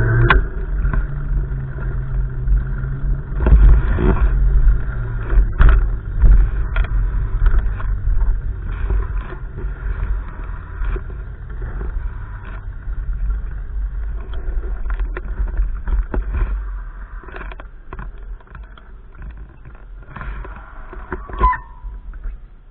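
Gusty wind buffeting the microphone: a heavy rumble that swells and eases, with a few short knocks, dying down near the end.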